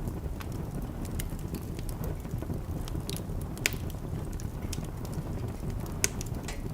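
Wood fire burning in a fireplace: a steady low rumble with scattered sharp crackles and pops, the loudest pops about a third of the way through and near the end.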